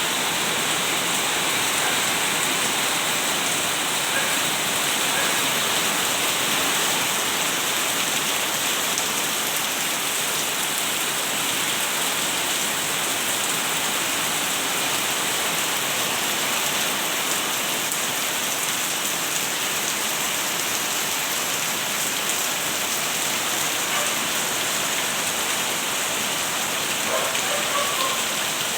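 Steady, heavy rain falling, a dense even hiss of drops on surfaces.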